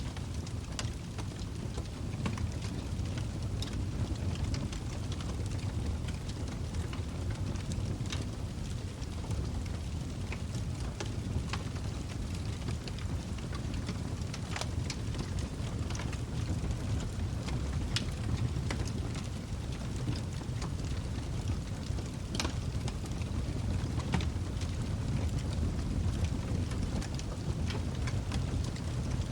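Log fire burning in a fireplace: a steady low rumble of flame with irregular sharp crackles and pops from the burning wood, a few noticeably louder than the rest.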